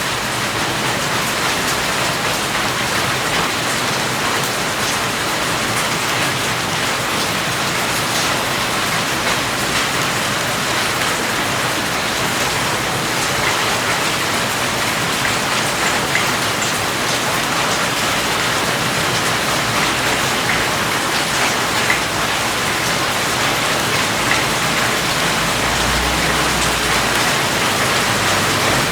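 Steady rain falling on a surface, with an even hiss and scattered drop patters.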